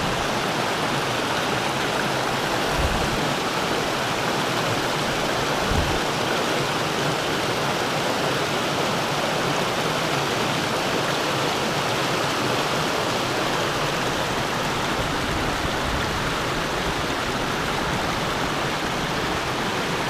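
A mountain river rushing over rock, a steady, even rush of flowing water.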